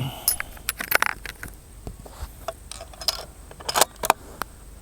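A quick, irregular string of sharp metallic clicks and clinks, about a dozen, bunched around one second in and again near four seconds in.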